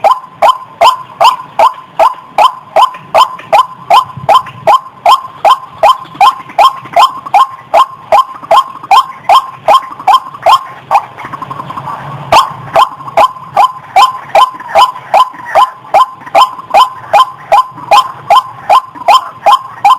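White-breasted waterhen (ruak-ruak) giving its loud, harsh calls over and over, about two a second, with a brief break about eleven seconds in.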